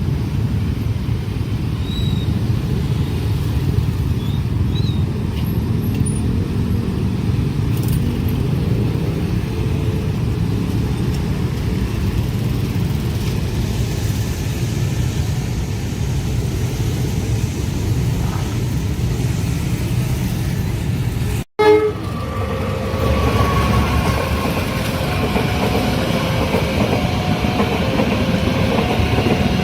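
Train passing close by, a steady rumble of wheels on rail. About 21 seconds in the sound cuts out abruptly with a click and picks up on another passing train, with short repeated tones over the rumble.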